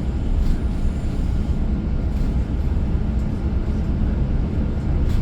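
Steady low drone of a transit bus under way, engine and road noise heard from inside the cabin.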